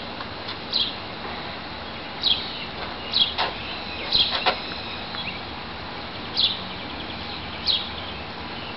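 A bird chirping: short, high, falling notes repeated about six times at irregular intervals of a second or so, over a steady background hiss.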